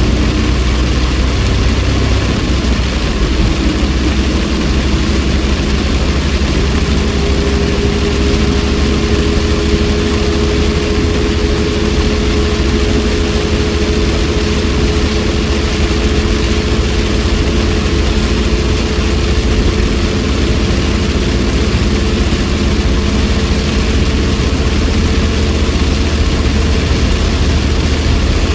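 Car cabin sound while driving in heavy rain: the engine runs with a steady low rumble under a constant hiss of rain and wet road. The engine note rises a little over the first several seconds, then holds steady.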